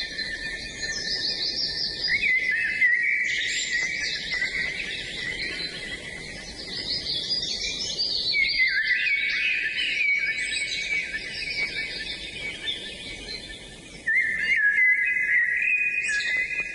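Several songbirds singing at once in overlapping, continuous chirping and trilling phrases. The song thins briefly, then a louder burst starts about fourteen seconds in.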